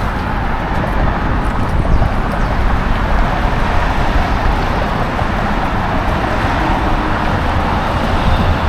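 Steady city traffic noise with a strong low rumble.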